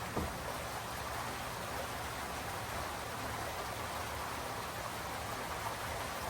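Steady rain falling, an even hiss, with one short low thump about a quarter second in.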